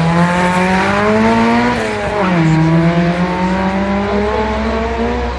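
Rally car engine accelerating hard on a tarmac stage, its note climbing, dropping sharply about two seconds in as it changes up a gear, then climbing again.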